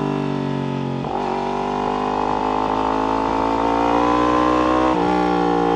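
Yamaha R1's inline-four engine through an Akrapovic exhaust, running under way. The pitch shifts about a second in, climbs slowly, then drops at a gear change about five seconds in.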